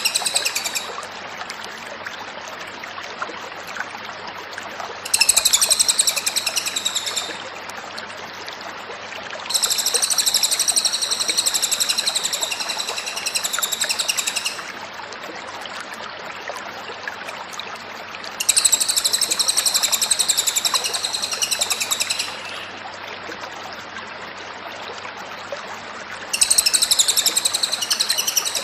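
Cililin bird singing in repeated bursts of high, rapid, chattering song, each a few seconds long, with pauses of several seconds between them over a steady hiss.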